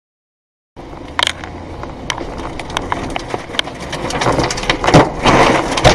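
Strong storm wind rushing over the microphone, with many sharp knocks and clatters of loose debris and structures being battered; it starts abruptly after a moment of silence and builds louder to heavy bangs near the end.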